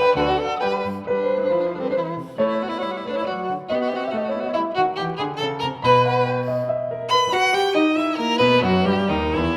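Background music: a violin playing a moving melody over plucked and bowed string accompaniment, with a low string bass note coming in about six seconds in.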